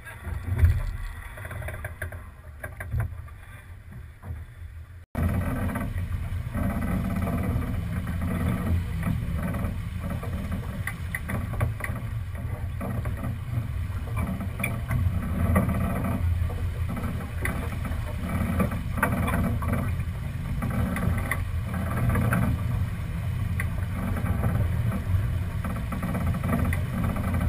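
Wind and water noise aboard a sailboat under way, heavy and low on an action camera's microphone. The noise jumps abruptly louder about five seconds in and then stays steady.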